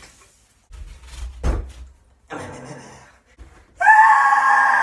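A body thudding against a door and tiled floor while kicking up into a handstand, with scuffing after it. Near the end a loud, steady held note lasting about a second.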